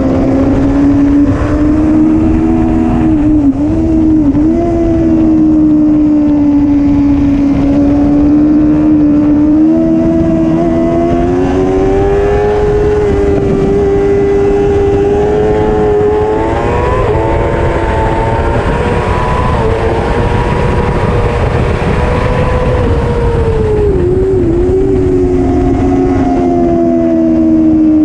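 Racing superbike engine running hard on track: one steady engine note that climbs slowly in pitch for much of the time, then drops with a few quick wobbles near the end, as when downshifting into a corner.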